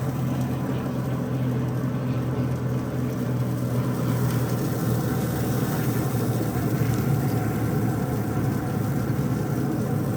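A steady low mechanical hum with a rough, even noise over it, unchanging throughout.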